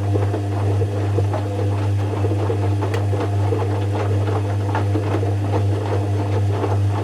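Zanussi FC1000 compact washing machine running, a steady low hum with continuous light rattling and ticking.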